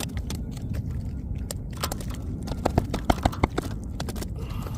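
Sharp, irregular knocks and splashy clatter as a hooked sea trout is landed at the kayak, with several louder thumps about two and a half to three and a half seconds in, over a steady low rumble.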